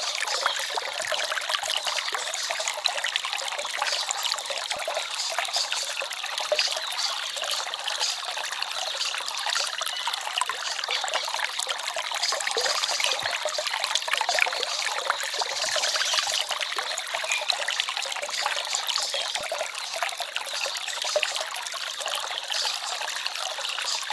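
A small forest stream trickling and babbling: a steady, even rush of water with a fine splashing texture and hardly any low rumble.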